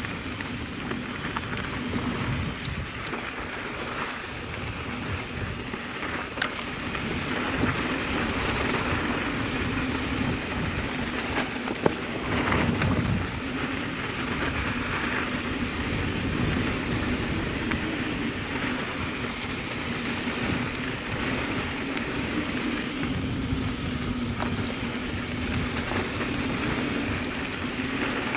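Mountain bike rolling fast downhill on a dirt trail: tyre noise and the bike rattling over rough ground, with wind buffeting the microphone. There is one sharp knock about twelve seconds in.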